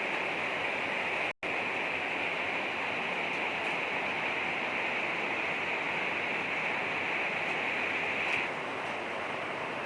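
Steady rain falling, an even hiss of water. The sound cuts out for an instant about a second and a half in.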